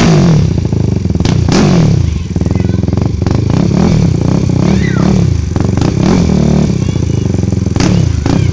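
Small single-cylinder pit bike engines running loud and revving, the pitch climbing and dropping several times as the bikes accelerate and shift.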